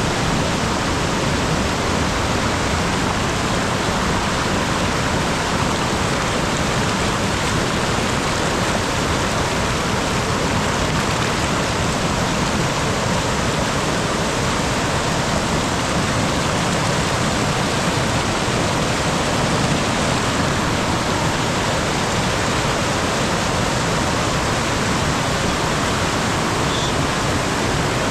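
Mountain stream water rushing and splashing over rocks, a steady, even rush with no breaks.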